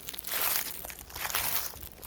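Footsteps crunching through dry fallen leaves, a few steady walking steps, each a crackling rustle of leaves crushed underfoot.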